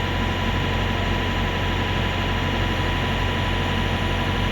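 Steady low rumble of idling truck engines, with a faint steady whine above it.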